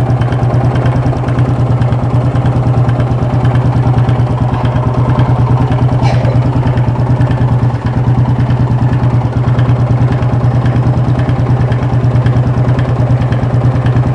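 Yamaha Fazer 250's single-cylinder engine idling steadily, heard up close, with an even stream of firing pulses. This is the strange engine noise the mechanic is investigating; the bike has also been throwing fault codes and misfiring.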